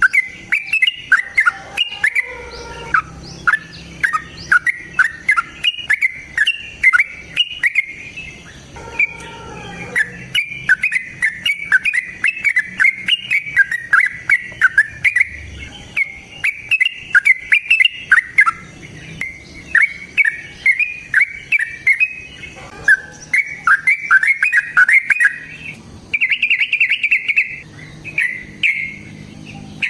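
A pet bird chattering in a long, fast run of sharp, high chirps, several a second, broken by brief pauses, with a denser burst near the end.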